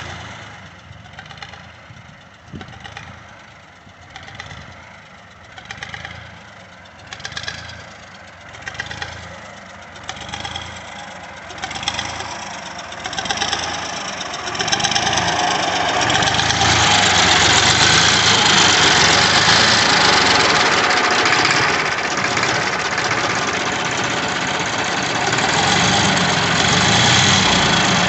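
A 1963 Nuffield 342 tractor's three-cylinder BMC diesel engine being started. It swells in slow surges about every second and a half, growing stronger, then about fifteen seconds in it catches and settles into a steady, louder run.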